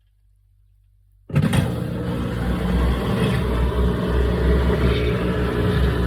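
GE top-load washing machine running loudly, a heavy low rumble with hiss from its motor and drum. It starts abruptly about a second in and stops abruptly near the end.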